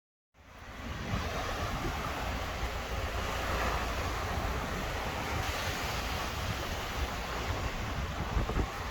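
Steady rushing wind on the microphone with waves washing, starting abruptly after a cut.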